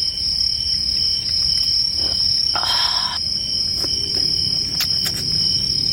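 Crickets chirping in a steady high trill, with a short hiss about two and a half seconds in and a few faint clicks.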